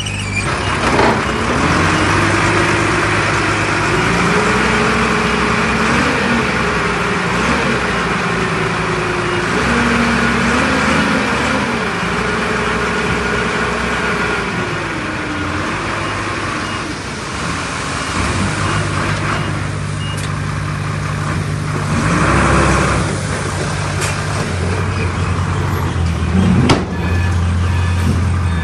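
Heavy earthmoving machine's diesel engine working, its pitch rising and falling again and again as the load changes. A single sharp knock comes near the end.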